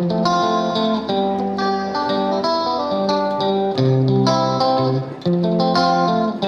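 Background music led by plucked guitar, picking a repeating melodic pattern.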